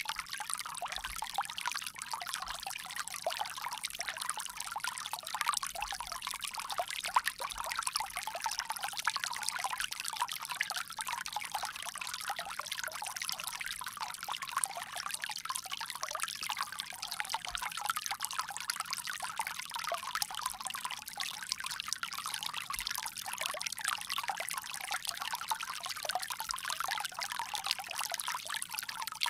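Water pouring from a bamboo spout, a steady splashing trickle with no let-up.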